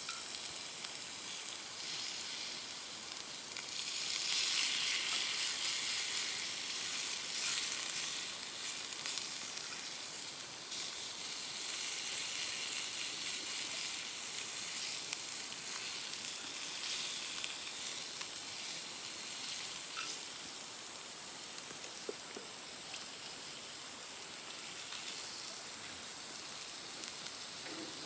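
Steak sizzling in a skillet over a campfire: a steady frying hiss that swells louder from about four seconds in and eases back after several seconds, with a few faint ticks.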